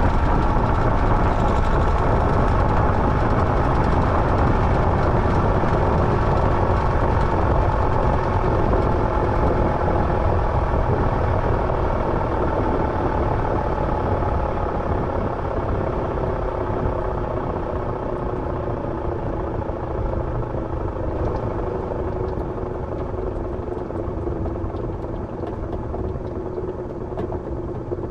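Washing machine drum winding down from its spin: a steady motor whine whose several tones slowly fall in pitch as the sound gradually gets quieter.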